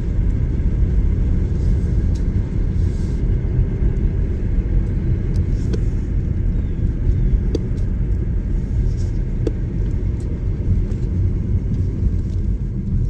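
BMW 440i Gran Coupe's turbocharged inline-six running steadily with a low rumble, with no big rev swings, and a few faint ticks on top.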